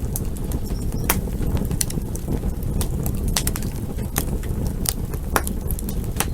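Wood campfire crackling: irregular sharp pops and snaps, a few each second, over a steady low rumble.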